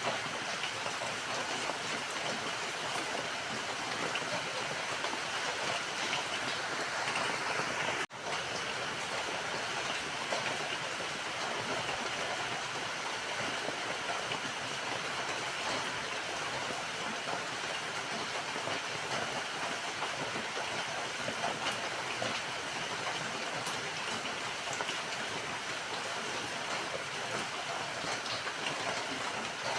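Steady rain falling, an even hiss of drops with no pauses except a split-second dropout about eight seconds in.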